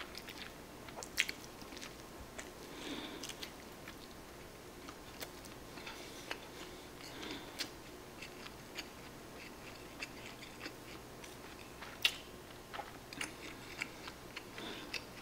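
A person chewing a mouthful of nori-wrapped rice ball (onigiri), with soft wet mouth noises and scattered small clicks. Sharper clicks come about a second in and again near twelve seconds.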